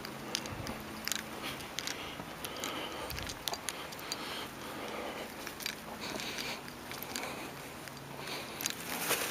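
Footsteps crunching over a woodland path, with many small cracks and crackles from twigs and dry leaves underfoot.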